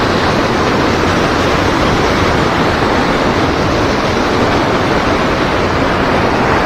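Loud, steady rush of river water pouring and churning.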